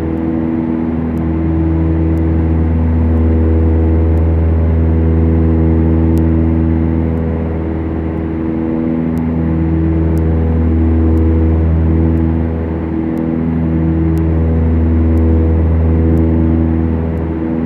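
Beechcraft Duchess's twin four-cylinder piston engines and propellers running steadily in flight, heard from the cockpit as a loud, even drone. The drone swells and fades slowly every few seconds.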